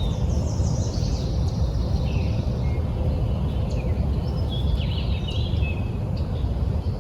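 Songbirds chirping and calling repeatedly over a steady low rumble, which the hiker takes for distant road noise.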